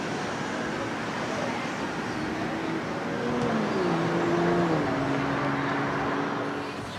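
Road traffic noise with a motor vehicle going past; its engine tone grows louder and drops in pitch about four to five seconds in.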